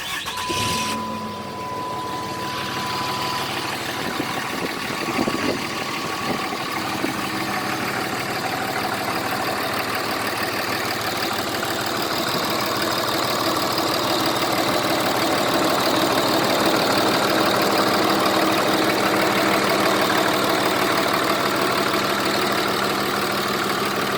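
2007 Ram pickup's engine starting right at the outset, then idling steadily, a little louder in the middle stretch. A steady high tone sounds for the first few seconds, then stops.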